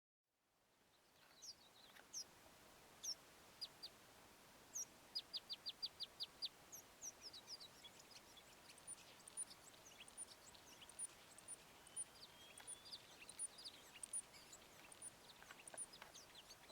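Faint birdsong from several small birds: scattered high chirps and quick downslurred notes, a rapid run of about eight notes around five seconds in, and in the second half a steady series of thin very high notes about twice a second.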